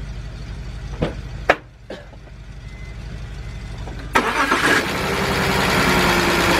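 A couple of sharp clicks, then about four seconds in the BMW 328i's engine cranks and fires, settling into a steady idle. It is the engine being run to check a misfire after its ignition coils were swapped between cylinders.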